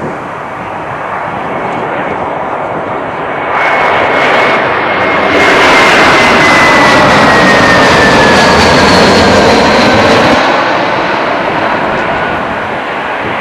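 Boeing 737-800 airliner with CFM56-7B turbofan engines passing close by. Its jet noise swells to a loud peak lasting about five seconds, then eases off, while the engine whine falls steadily in pitch as it goes past.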